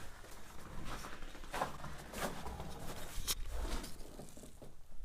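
Stillness in an empty building, broken by light rustling and a few soft clicks, one sharper about three seconds in, over a faint low rumble.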